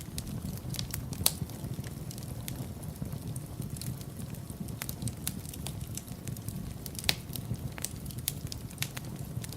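Wood fire burning in a fireplace: a steady low rumble of flame with frequent sharp crackles and pops, two louder pops about a second in and about seven seconds in.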